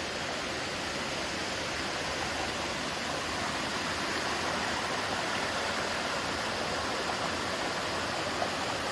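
Small river rushing steadily over its bed.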